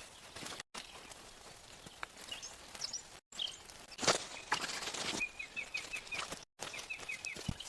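Outdoor ambience with a small bird chirping in quick runs of short, repeated notes, among scattered knocks and crunches. The loudest crunch comes about halfway through. The sound cuts out suddenly three times.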